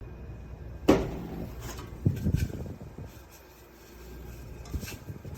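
Knocks and clunks of hard objects being handled and set down: a sharp knock about a second in that rings briefly, a quick cluster of knocks about two seconds in, and one more near the end, over a low steady hum.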